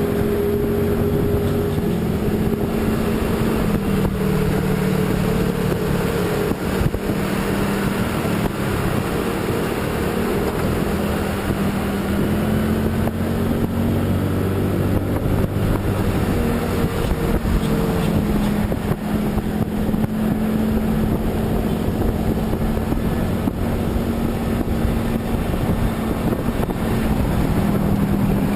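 Vehicle engine running steadily on the move, its pitch drifting a little up and down, with wind noise on the microphone.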